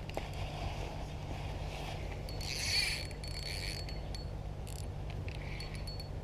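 A carp rod's bite indicator going off in short, irregular bursts of high clicking and ringing, the loudest about two and a half seconds in: a fish is taking the bait and pulling line. A steady low rumble runs underneath.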